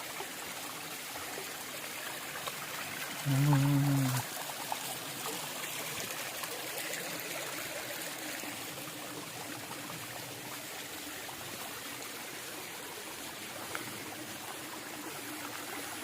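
Shallow stream of a small waterfall running steadily over flat rock slabs, a continuous trickling rush. About three seconds in, a person gives a short hum.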